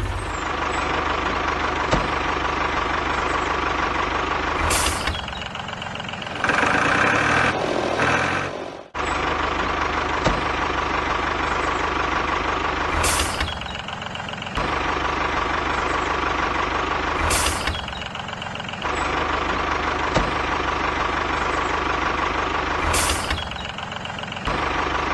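A small motor running steadily, breaking off and starting again abruptly several times. For a couple of seconds, about a third of the way in, it gives way to a busier, rattling mechanical sound.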